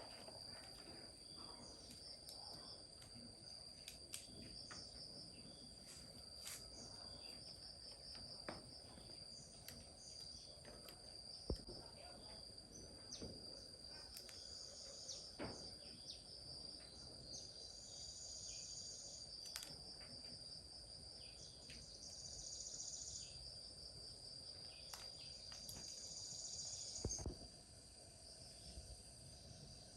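Faint insect chorus: one steady high-pitched trill, with short pulsed chirping bursts above it that come more often in the second half. Low background noise runs under it, with a few light clicks and knocks; the loudest knock comes near the end.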